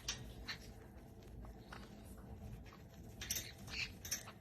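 Parrot making a few short, high squeaks and clicks, spaced irregularly, with the loudest ones near the end.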